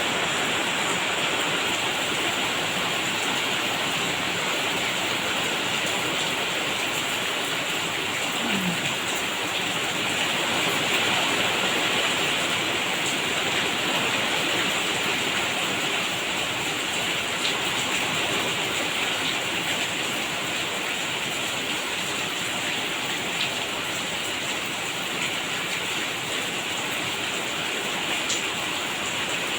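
Steady rain falling, an even continuous hiss that holds the same level throughout.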